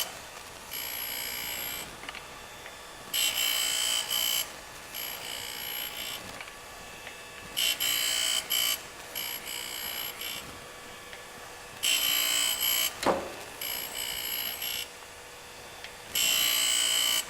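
Eisen 618B manual surface grinder's wheel grinding a small block on the magnetic chuck in repeated hand-fed table passes: a loud grinding hiss about every four seconds, each lasting a little over a second, with a fainter grind between as the table travels back. A single knock comes late on.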